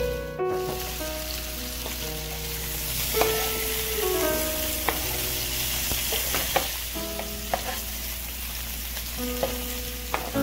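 Pork belly cubes sizzling as they fry in a non-stick pan, with sharp clicks and scrapes of a spatula stirring them. Background music with sustained notes plays under it.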